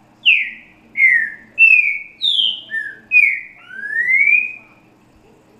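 Green-winged saltator (trinca-ferro) singing one phrase of the 'grego boca mole com boi' song, the song type used to tutor young birds. It has seven loud, clear whistled notes, mostly falling slurs with one short low note, and ends in a long rising whistle.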